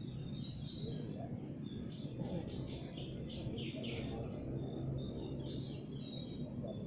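Small birds chirping in quick, repeated short notes over a steady low background rumble.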